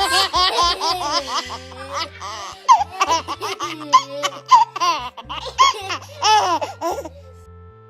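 A baby laughing hard in repeated bursts over background music. The laughter stops about seven seconds in.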